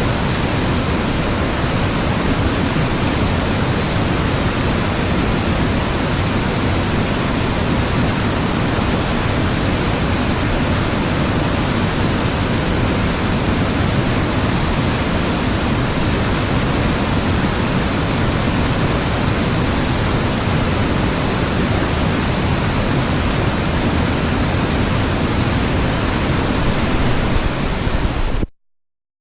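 Waterfall's falling water, a loud, steady, unbroken rush that cuts off suddenly near the end.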